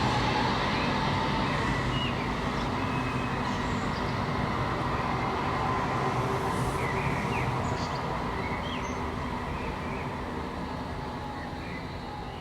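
A tram running with a steady rumble and electric motor hum, the sound fading away through the second half.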